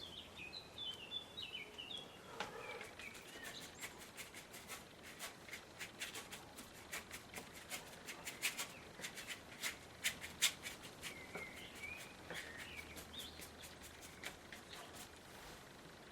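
Irregular quick clicks and taps from acrylic paint being mixed and dabbed on with a painting tool, densest in the middle. Birds chirp in the background near the start and again about two-thirds of the way through.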